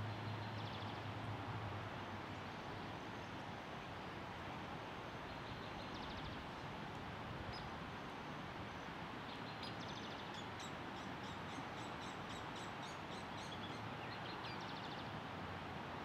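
Songbirds chirping and singing over steady outdoor background noise, with a quick run of repeated high notes in the second half. A low hum fades out within the first two seconds.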